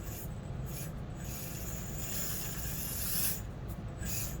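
Axial SCX24 1/24-scale RC crawler straining over an obstacle: its small electric motor and gears run continuously, with scratchy scrabbling noises that come and go as the tires work against the course.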